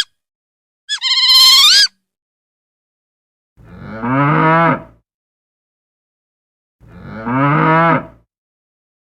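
Cow mooing twice, each moo about a second and a half long, after a short high-pitched animal call about a second in.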